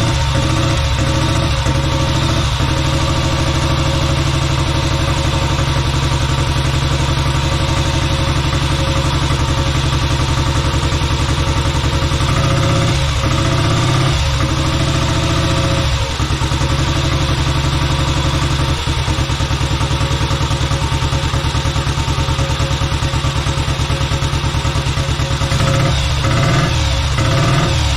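1928 Velocette KNS 350cc single-cylinder overhead-cam motorcycle engine running on a small throttle opening, a steady rapid beat with brief changes in pace now and then. It is running again after more than 30 years standing.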